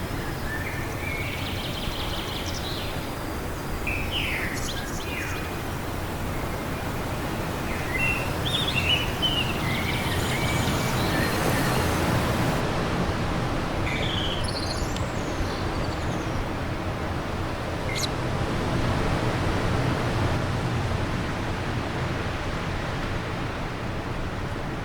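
Wind blowing steadily, with gusts swelling now and then, while small birds chirp in short, scattered calls, mostly in the first half.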